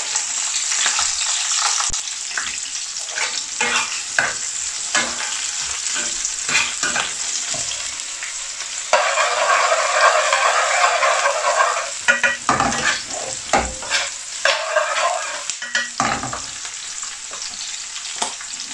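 Sliced onions and red peppers sizzling in hot oil in an aluminium pan, stirred with a metal spoon that scrapes and clinks against the pan. The sizzle gets louder for about three seconds around the middle.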